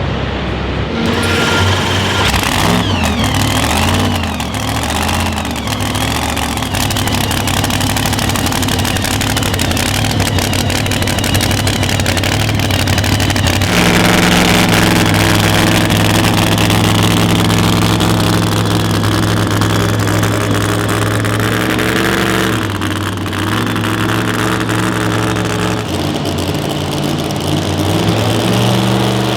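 Engine of a truck-and-tractor-pull vehicle running hard at high revs through a pull, loud and continuous. It wavers in pitch at first, steps up to a louder, steadier pitch about halfway through, and eases off briefly about 23 seconds in before picking up again.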